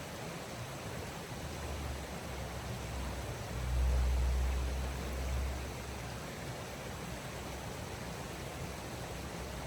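Steady wind noise in a snowstorm, with a low rumble of gusts buffeting the microphone that swells about two seconds in and peaks around four to five seconds.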